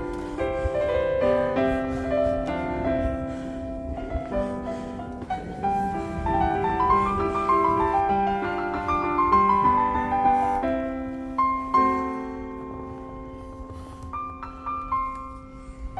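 Background piano music: slow sustained chords, with a run of notes climbing and then falling back through the middle.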